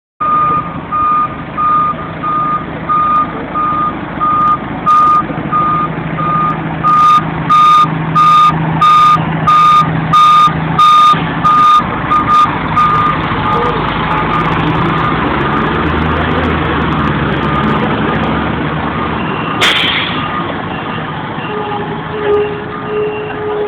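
Fire engine reversing, its back-up alarm beeping steadily about one and a half times a second over the running diesel engine; the beeping stops about halfway through. A brief sharp hiss of air comes near the end.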